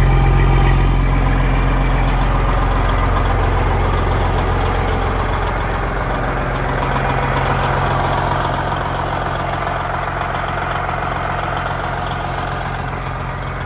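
Semi truck's diesel engine idling steadily while its air system builds pressure.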